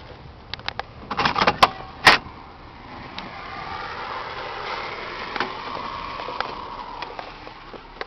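Several sharp clicks and knocks about a second or two in, then a vehicle going by: a steady noise that swells over a few seconds and fades again.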